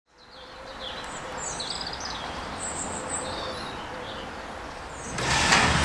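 Small birds chirping in short bursts over steady outdoor background noise. Near the end a much louder low rumble comes in and takes over.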